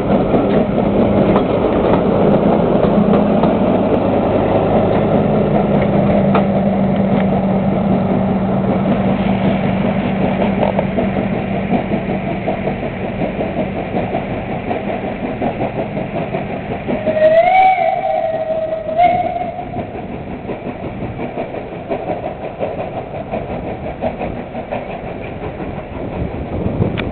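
Passenger train on the move, hauled by Peckett steam locomotive No.2150 with a second engine at the rear: a steady rumble of locomotives and coaches with a low engine drone that fades out about halfway, the whole sound slowly dying away. About 17 seconds in a whistle sounds, rising and then held for about two seconds.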